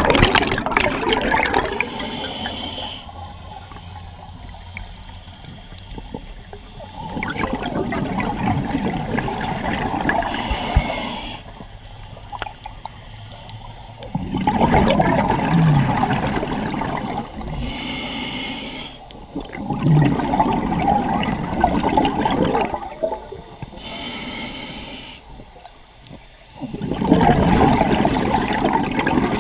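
Scuba diver breathing through a regulator underwater: a short hiss from the regulator on each inhale, then a few seconds of bubbling as the exhaled air vents. About five breaths in a steady rhythm.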